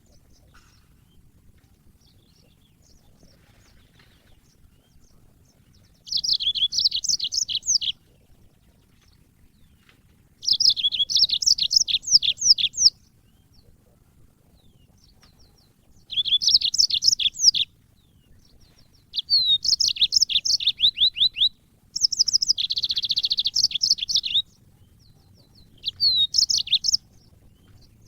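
Yellow-fronted canary singing in six bursts of quick, high chirping trills, each lasting one to three seconds, with short quiet pauses between them.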